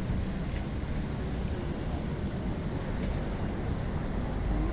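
Steady rush of wind and rain, with wind rumbling on the microphone.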